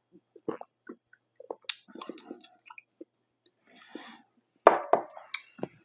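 Close-up chewing of pizza: wet mouth clicks and smacks in an irregular rhythm, louder for a moment about three-quarters of the way through.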